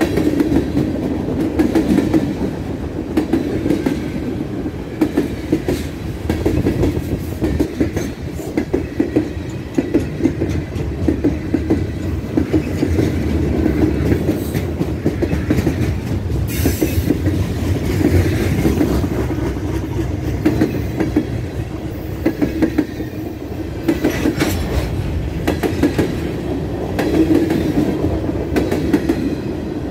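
Freight train cars rolling steadily past, with a continuous low rumble and a rapid clickety-clack of wheels crossing rail joints.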